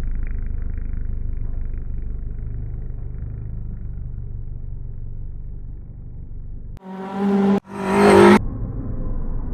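Rally car engine and road noise heard as a muffled low rumble. About seven seconds in, a much louder, clearer engine note comes in two short bursts lasting about a second and a half, then the muffled rumble returns.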